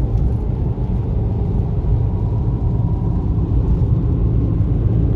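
A car driving along at speed, with a steady low rumble of road and engine noise heard from inside the cabin.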